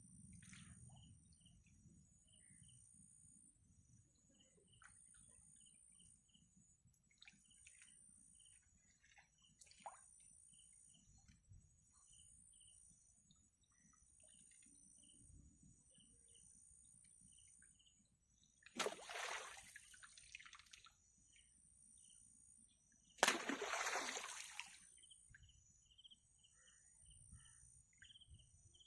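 Two short water splashes, about four seconds apart, over steady insect chirring and faint bird chirps.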